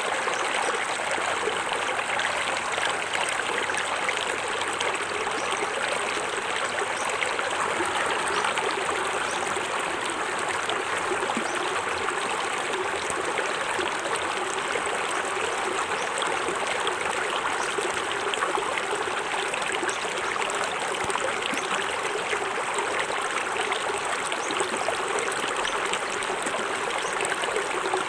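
Small forest waterfall splashing and trickling into a stream, a steady even rush of water.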